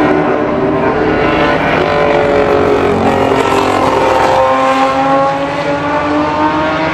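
Several historic racing cars' engines at high revs, heard together as they pass. Pitches slide down about two thirds of the way in, then climb again as they pull away and go up through the gears.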